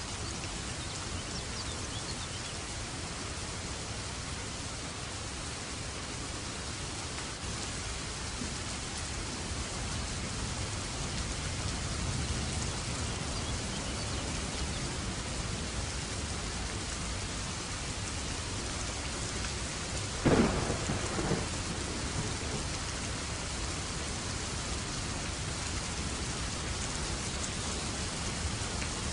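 Steady heavy rain with a single sharp thunderclap about two-thirds of the way through, followed by a brief rumble.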